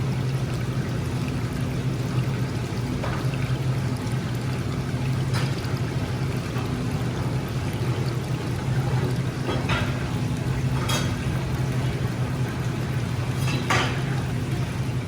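Steady water sound, pouring or bubbling liquid over a constant low hum, with a few brief faint pops scattered through it.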